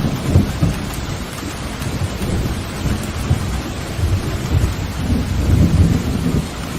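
Steady heavy rain with rolling thunder: low rumbles swell about a second in and again near the end, over the constant hiss of the rain.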